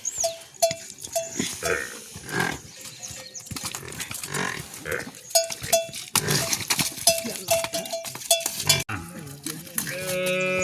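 Livestock neck bells clanking irregularly, a few times a second, as the animals move. Near the end a cow gives one long moo.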